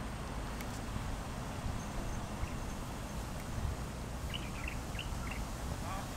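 Steady low background rumble, with a quick run of faint bird chirps about four seconds in.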